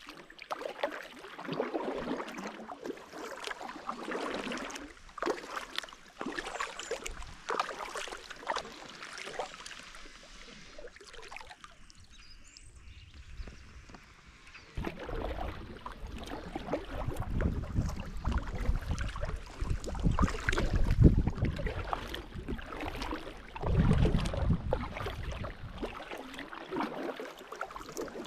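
Paddles dipping and splashing in a river from a small boat, with irregular knocks and watery strokes. From about halfway on, heavy low rumbling comes in waves and becomes the loudest sound.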